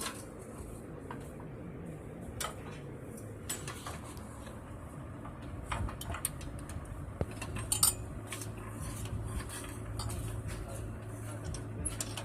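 Scattered light metallic clinks and clicks of metal parts being handled, with a faint steady hum joining about seven seconds in.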